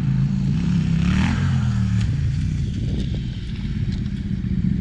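Dual-sport motorcycle engine running steadily, revving up about a second in and easing back off.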